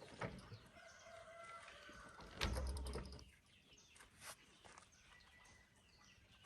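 Faint calls of farmyard fowl, with a dull thump and a brief clicking rattle about two and a half seconds in.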